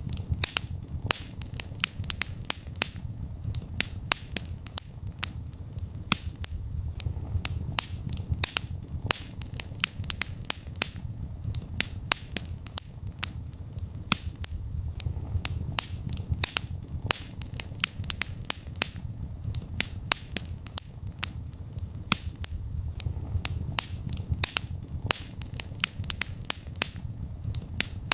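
Wood fire burning in a fireplace, with dense, irregular sharp crackles and pops over a steady low rumble of the flames.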